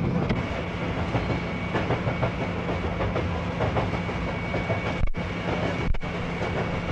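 Train running along the track, its wheels clacking irregularly over the rail joints over a steady rumble and hum. Two sharp clicks with a brief cut-out of the sound come about five and six seconds in.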